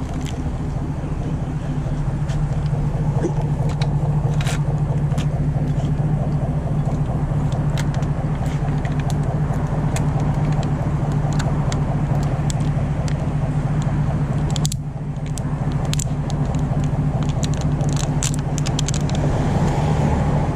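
A vehicle engine idling steadily, a low even hum, with scattered clicks and rattles as a plastic water bottle is handled and fitted into a bicycle's rear rack.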